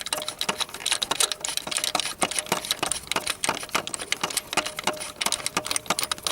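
Ratchet wrench clicking rapidly and unevenly as a bolt of the starter motor is backed out.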